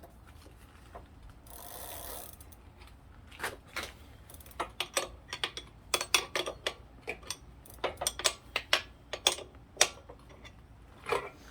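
Irregular sharp metallic clicks and ratcheting from hand tools working on an e-bike pedal, with a brief hiss about two seconds in.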